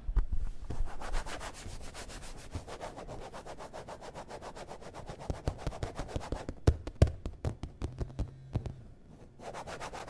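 Rapid, rhythmic rubbing or scraping strokes for about six seconds, then a run of sparser separate clicks and knocks.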